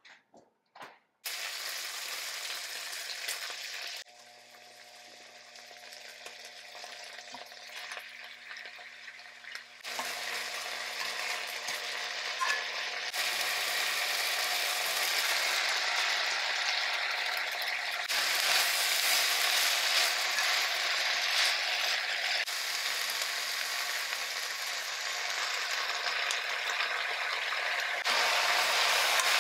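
Yakisoba noodles with bacon, shrimp, cabbage and carrot sizzling as they stir-fry in a pan, being stirred and tossed. A few faint clicks come just before the frying starts, and the sizzle grows louder from about ten seconds in.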